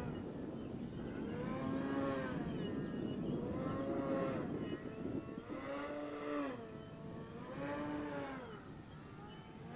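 Electric motor and propeller of a 65-inch RC aeroplane in flight, its whine rising and falling in pitch about every two seconds as the throttle is worked during slow aerobatics.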